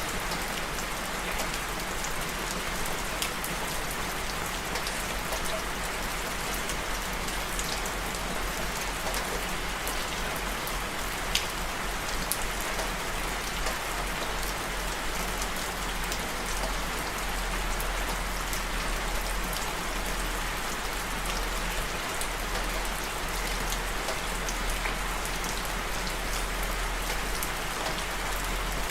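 Steady rain falling, an even hiss with scattered individual drops ticking sharply on a surface, one louder drop about eleven seconds in.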